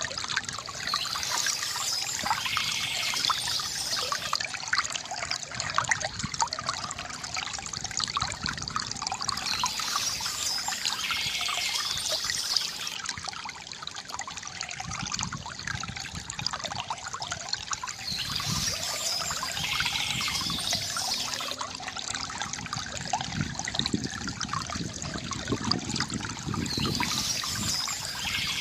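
River water gurgling and trickling steadily over stones. Birds chirp in high bursts of a few seconds that come back about every nine seconds.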